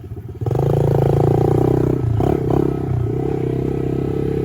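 Small single-cylinder pit bike engine running hard at high revs. It comes in loud half a second in, and its note dips briefly about two seconds in, as when the throttle is rolled off and back on.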